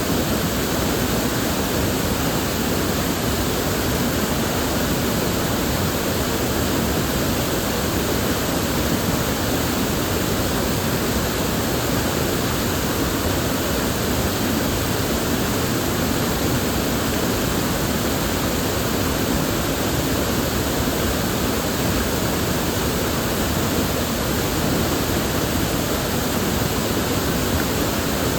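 River water flowing and rushing steadily, an even unbroken wash of sound with no separate splashes or other events.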